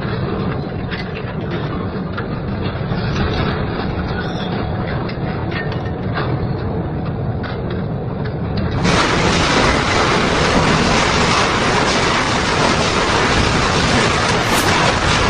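Double-shaft industrial shredder grinding scrap metal, a dense rumbling grind with clanks and crunches of metal being torn. About nine seconds in the sound cuts abruptly to a louder, harsher grinding.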